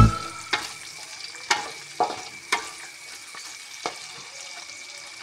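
Shallots, garlic, chilies and tomatoes frying in oil in a wok with a low, steady sizzle, while a spatula stirs them and knocks sharply against the wok several times.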